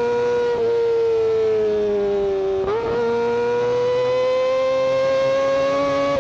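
Kawasaki Ninja ZX-25R's 249 cc inline-four running at high revs, a high-pitched exhaust whine. The pitch sags slowly, steps up sharply a little before halfway, then climbs steadily.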